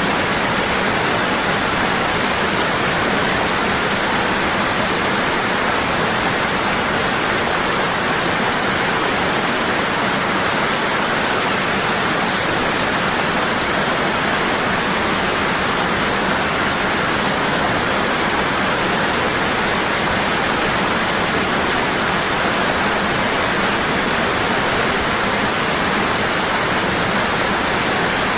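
Waterfall pouring strongly and constantly: a steady, even rush of falling water with no change.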